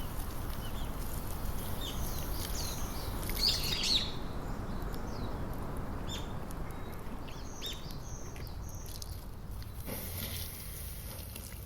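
Small birds chirping and calling, several short calls with a louder burst about three and a half seconds in, over a steady low outdoor rumble.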